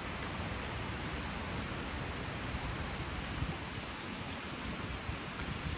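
Steady rushing background noise with a low rumble underneath and no distinct events.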